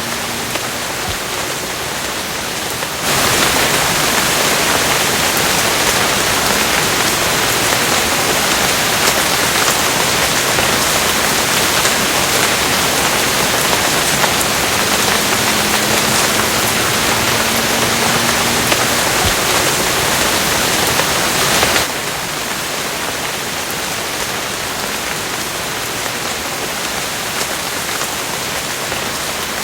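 Steady rain, an even hiss. About three seconds in it abruptly gets louder and heavier, then drops back just as suddenly near the end.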